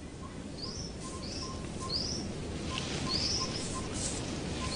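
Forest bird calling with short, high, rising-and-falling chirps, about one a second and getting longer toward the end. A steady series of faint lower pips, about two or three a second, runs underneath.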